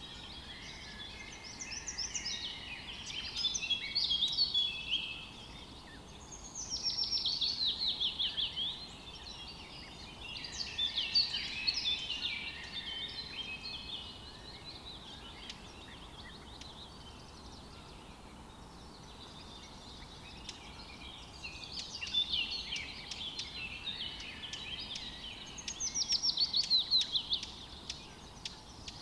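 Songbirds singing in phrases of quick chirps and fast trills, with pauses between phrases, over faint steady background noise.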